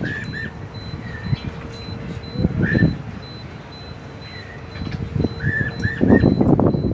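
Cililin bird calling with short chirps, single or in quick runs of two or three, over a faint, fast-pulsing high beep and a steady hum. Louder rustling and knocking comes about two and a half seconds in and again near the end.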